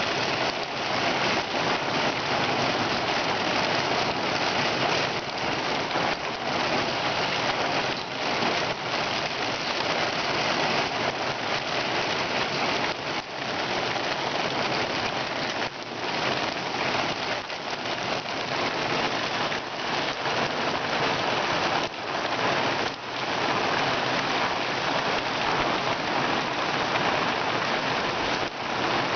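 Steady rain from a thunderstorm: a dense, even hiss with many separate drop hits.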